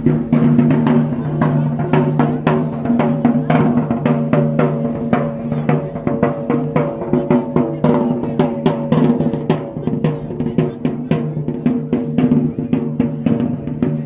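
Live band music led by drums: snare and bass drum beating a quick, steady rhythm over a held low note, with a tune moving above it.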